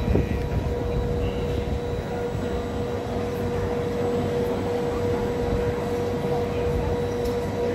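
Steady drone of a stationary passenger train at the platform: a constant hum over a low rumble.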